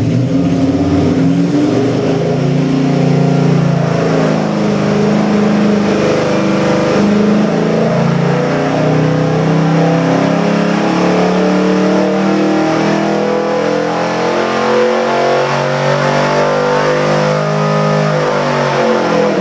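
Ford 427 cubic inch Windsor stroker V8 running on an engine dyno, its pitch climbing and falling again and again as it is revved.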